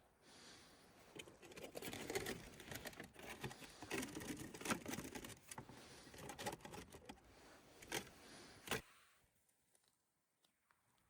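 Irregular small clicks, knocks and rustling of objects being handled, with a couple of sharper clicks, stopping a little before the end.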